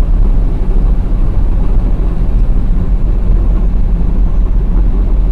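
Steady low rumble of a vehicle in motion, engine and road noise picked up by a dash cam.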